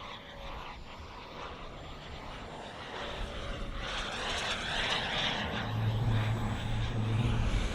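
Turbine engine of an RC model jet flying past, a rushing jet noise with a faint high whine that builds steadily louder through the second half as the jet approaches.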